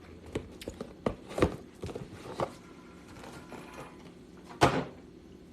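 Small clicks and knocks of objects being handled close to the microphone, with one louder knock about four and a half seconds in.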